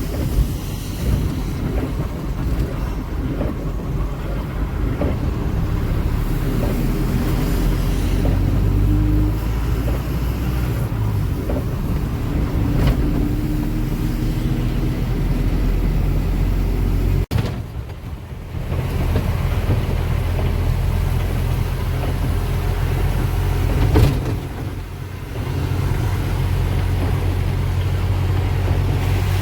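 Ashok Leyland Ecomet 1214 truck's diesel engine running steadily with road noise while driving, its low hum dipping briefly twice in the second half.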